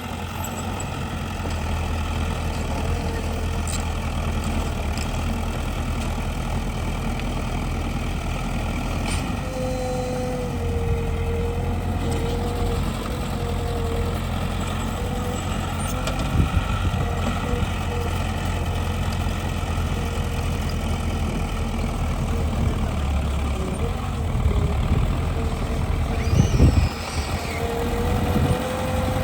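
Heavy construction machinery's diesel engine running steadily, with a held whine over the rumble and a few short knocks, the loudest near the end.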